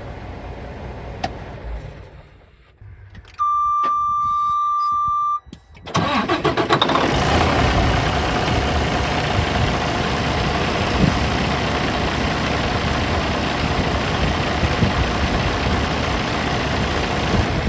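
Detroit DD15 diesel engine of a Freightliner Cascadia semi truck shut down, then a steady warning beep for about two seconds, then the engine cranks and starts about six seconds in and settles into a steady idle with a faint whine.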